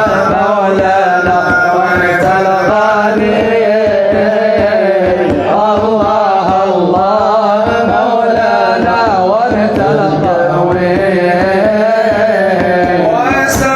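Devotional song (nasheed) music: a winding melodic line with a held low drone, over a steady hand-drum beat.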